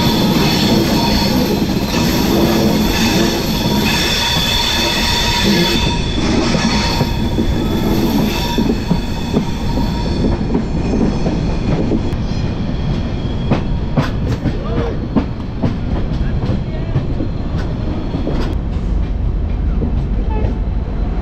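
Capital Express passenger train running, heard from an open coach door: a steady rumble of wheels on rail with a high wheel squeal for about the first ten seconds. After that come sharp clacks as the wheels run over rail joints and points.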